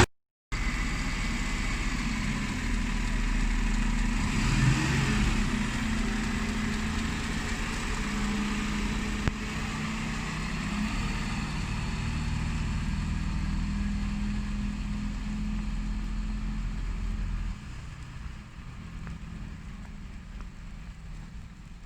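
Diesel engine of a Dennis Elite 6 bin lorry running steadily, dropping noticeably in level about three-quarters of the way through.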